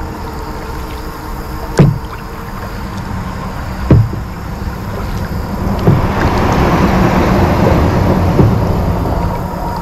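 Four hollow thumps on a kayak a couple of seconds apart, over a steady low rumble, with a hissy swell about two-thirds of the way through.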